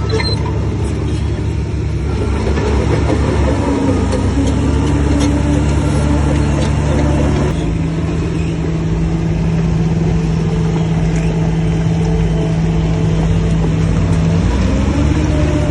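Heavy diesel engine of a Shantui bulldozer running steadily under load. Its engine note shifts about halfway through and rises briefly near the end.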